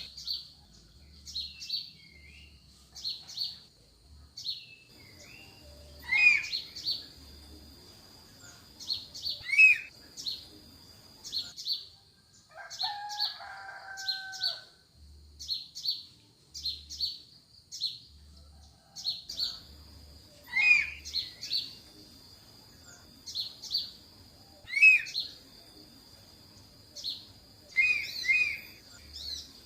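Wild forest birds calling: many short, sharp, high chirps repeated every second or so, with a steady high-pitched whine beneath them. A lower, two-toned call sounds briefly about halfway through.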